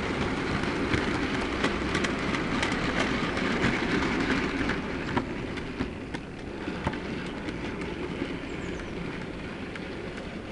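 OO gauge model diesel train running on the track: a steady motor and wheel rumble with many small clicks as the wheels cross rail joints, growing quieter about halfway through.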